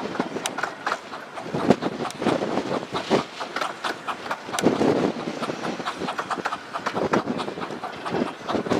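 Romney, Hythe and Dymchurch Railway 15-inch gauge miniature train running on the track: a steady rumble with many irregular clicks from the wheels over the rails.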